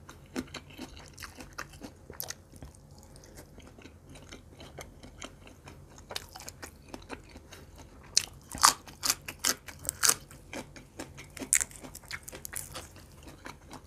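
Close-miked chewing of grilled pork barbecue skewer meat, with many small wet mouth clicks. A denser run of crisp crunches comes about eight to ten seconds in.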